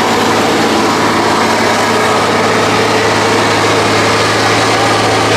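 Tatra 8x8 off-road truck's diesel engine running loud and steady.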